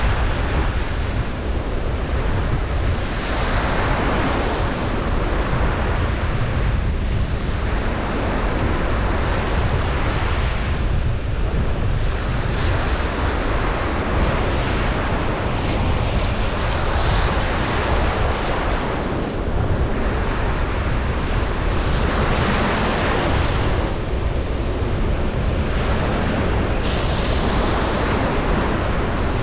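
Ocean surf breaking and washing up on a beach, swelling and ebbing every few seconds, over a steady low rumble.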